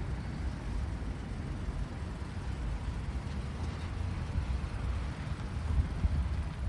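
Outdoor street ambience: a steady, uneven low rumble with a faint hiss above it.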